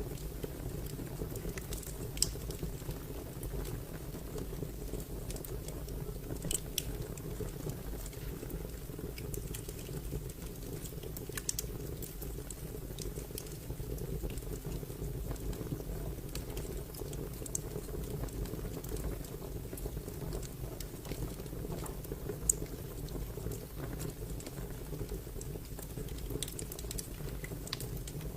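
Wood fire crackling: a steady low rumble with scattered sharp pops and crackles, a few louder snaps standing out every several seconds.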